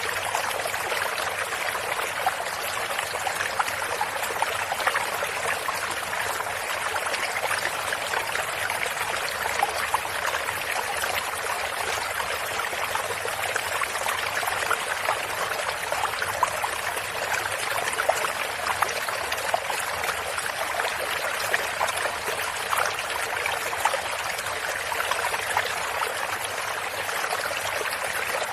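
Shallow stream of water running steadily over stones, with a busy trickling and splashing.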